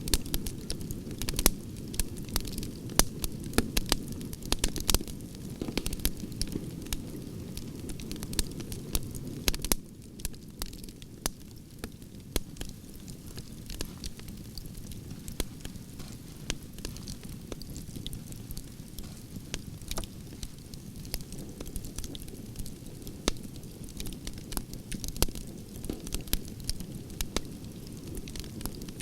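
Wood campfire burning: a steady low rush of flame with frequent sharp crackles and pops from the logs. The crackling thins out and the fire gets a little quieter about ten seconds in.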